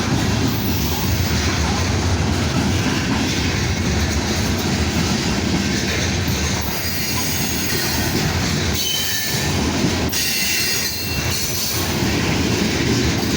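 Freight train cars rolling past, a steady rumble and rattle of steel wheels on the rails. Thin, high wheel squeals come in about halfway through.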